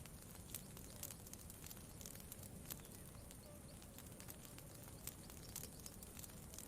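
Campfire crackling: quiet, irregular sharp pops and snaps over a low, steady rumble.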